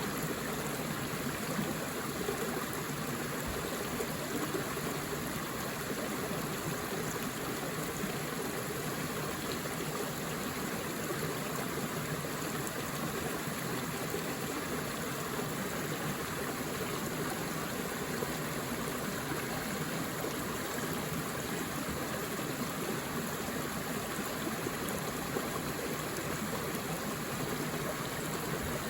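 Forest river flowing over rocks, a steady rushing and babbling of water that does not change.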